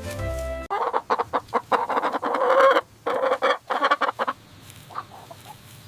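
Chickens clucking in rapid, busy bursts for a few seconds, then fainter and sparser. A short musical jingle cuts off abruptly under a second in, just before the clucking starts.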